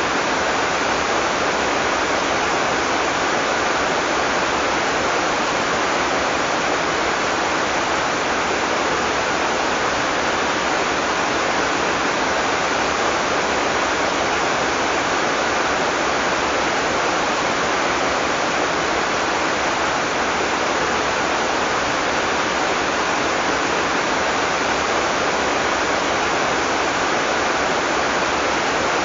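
Heavy tropical rain falling steadily, a dense, even hiss with no thunder.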